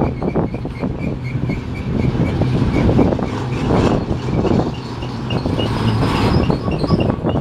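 Freight train of autorack cars rolling past: a steady rumble of steel wheels on rail with repeated knocks and clatter from the wheel sets, and a faint high ping repeating about four times a second.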